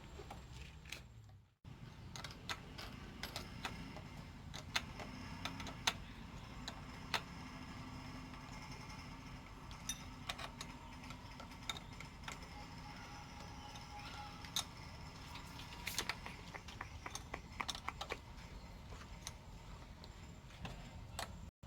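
Scattered light metallic clicks and clinks of hand tools and bolts on truck battery terminals and clamps as the batteries are fitted, over a steady low background hum.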